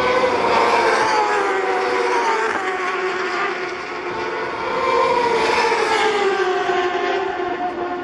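Racing motorcycle engine running continuously, its revs easing down over the first few seconds, rising again about halfway through, then falling off gradually.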